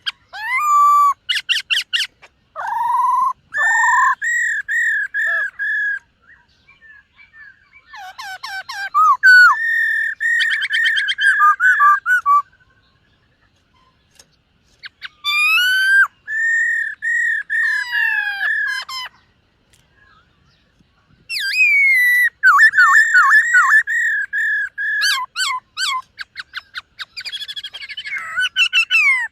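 Black-throated laughingthrush singing: loud phrases of clear whistled notes, fast runs of repeated notes mixed with quick slurred flourishes. The four phrases come with short pauses of one to two seconds between them.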